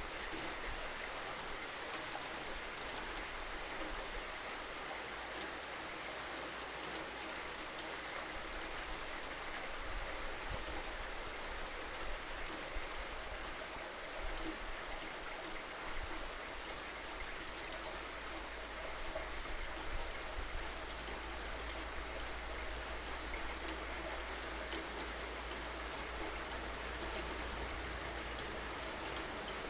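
Steady rain falling, a dense even hiss of drops with scattered sharper drop ticks, over a low rumble.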